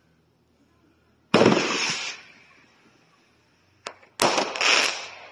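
Aerial fireworks going off: a loud bang a little over a second in that dies away over about a second, then a short sharp crack and a second loud burst near the end.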